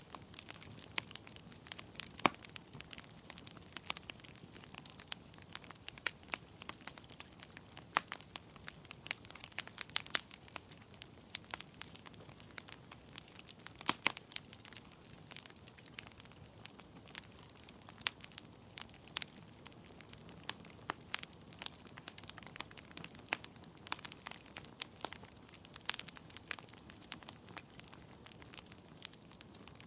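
Wood fire burning in a fireplace: logs crackling with frequent irregular sharp pops and snaps over a soft steady hiss, a few pops louder than the rest.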